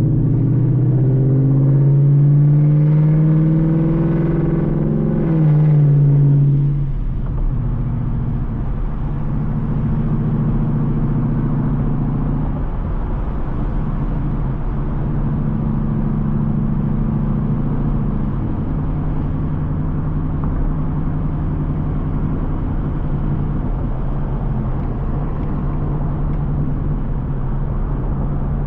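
Straight-piped Ford Mustang GT's 5.0 V8 exhaust pulling hard for about the first six seconds, its pitch climbing and stepping with upshifts of the 10-speed automatic, then dropping back to a steady low drone at cruise.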